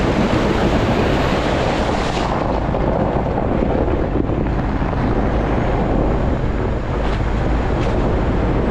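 Steady wind rushing over the microphone with a vehicle's low rumble underneath; the hiss eases about two seconds in.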